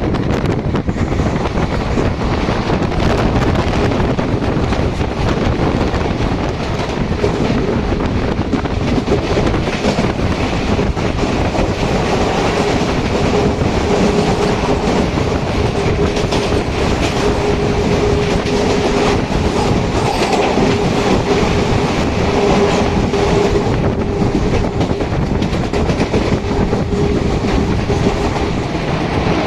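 Express passenger train running fast, its coach wheels clattering over the rail joints amid a steady rushing noise; a faint steady hum comes in about midway.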